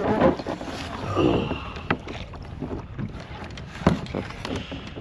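Knocks and bumps on a tandem kayak's hull as a person climbs aboard and shifts their weight, with a couple of sharper thuds about two and four seconds in. Wind rumbles on the microphone.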